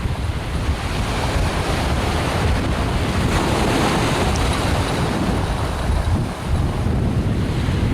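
Wind buffeting the microphone over waves breaking in the surf.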